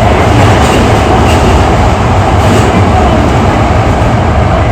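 Hankyu 8300 series electric train running through a subway tunnel, heard from inside the car: a steady loud rumble of wheels on rail with a few faint clicks.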